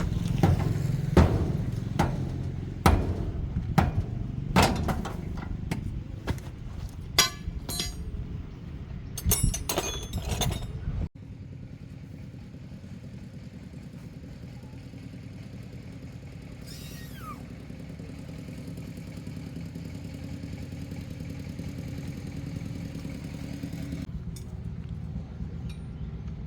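A car engine running, with a loud rumble and repeated knocks and clatter for about the first eleven seconds. After a sudden cut it gives a steadier, quieter hum.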